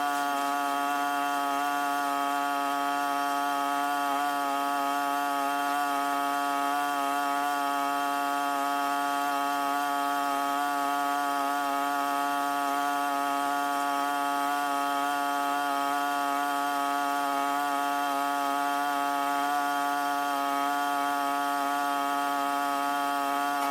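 A small engine running steadily at high speed, one unchanging buzzing tone with no revving or pauses.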